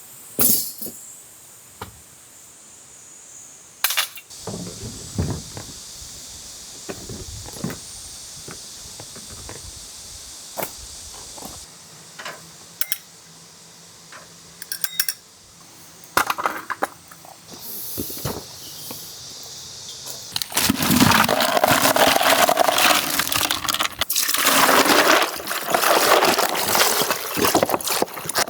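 Scattered light clicks and knocks over a steady high hiss, then about two-thirds of the way in a loud rush of splashing, pouring water takes over.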